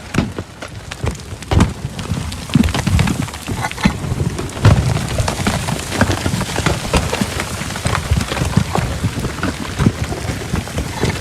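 Heavy rainstorm: a dense, loud patter of drops hitting a surface, with low rumbling underneath.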